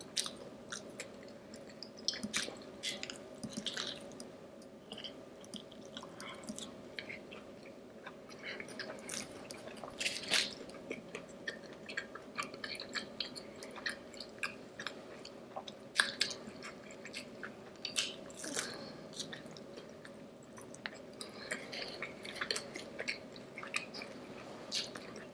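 A person chewing and biting food close to the microphone: wet, squishy chewing with irregular lip smacks and clicks, over a faint steady hum.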